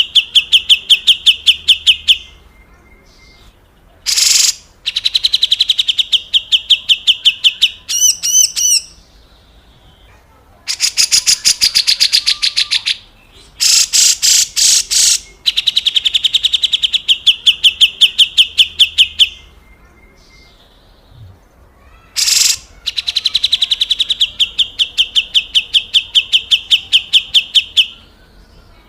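Grey-cheeked bulbul (cucak jenggot) giving its coarse rasping 'besetan kasar' call: fast rattling trains of harsh notes, each phrase lasting a few seconds with short pauses between. Brief rough bursts come between some phrases.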